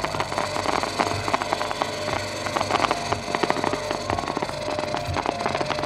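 Fireworks crackling: a dense, continuous run of rapid small pops and crackles.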